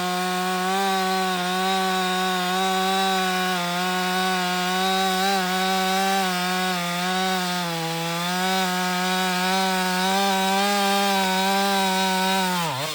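Two-stroke chainsaw at full throttle cutting wood: a steady high engine note that sags a little under load. Near the end the throttle is released and the engine falls quickly toward idle. The chain is hand-filed and cuts poorly, not as well as a factory grind.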